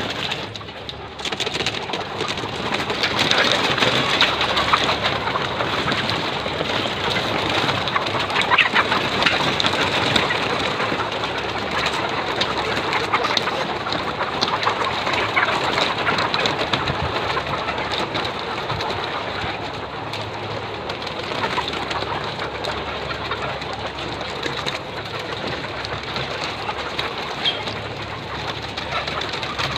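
A large flock of laying hens in a poultry house: a dense, continuous din of many overlapping clucks and calls.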